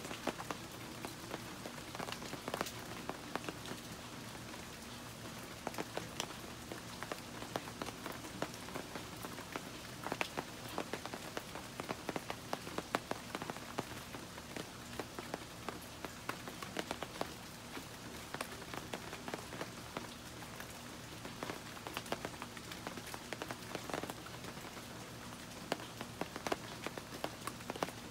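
Steady rain falling on leaves and garden surfaces, with many individual drops striking close by as sharp ticks.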